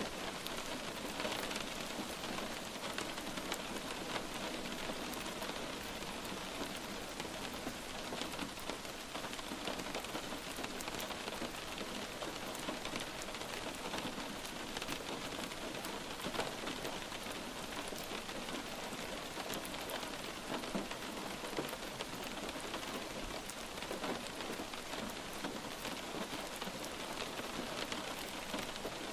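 Steady light rain falling, an even hiss of dense small raindrops pattering on a surface.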